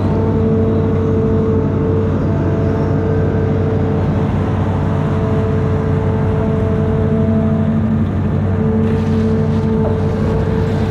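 Amphibious excavator's diesel engine running steadily, with a pitched whine over the engine hum that drops out briefly twice.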